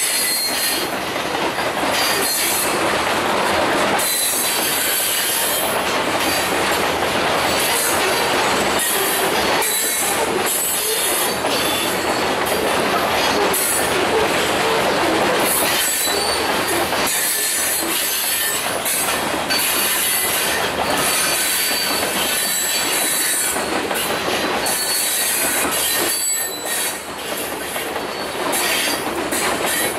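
Covered hopper cars of a freight train rolling past close by: steel wheels running over the rail in a steady loud clatter, with a thin high wheel squeal at times.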